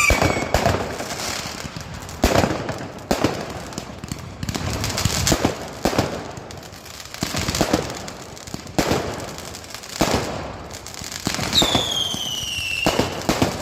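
Fireworks going off: a run of bangs at uneven intervals with crackling in between, and a whistle that falls in pitch near the end.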